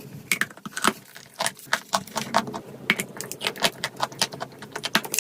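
Dry chalk clay crunching close up: a quick, irregular run of sharp, crisp crackles, a few every second.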